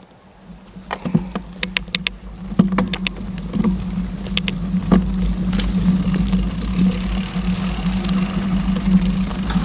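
Mountain bike setting off and rolling along a dirt trail. A quick run of sharp clicks and knocks from the bike over rough ground comes in the first few seconds, then a steady rumbling hum as it picks up speed.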